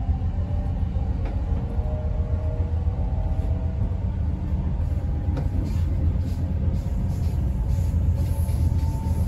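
Passenger train running, heard from inside the carriage: a steady low rumble with faint wavering whining tones above it.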